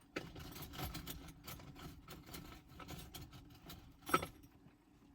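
Rummaging for a fork: small clicks and rattles of things being moved and handled, with a sharper knock about four seconds in.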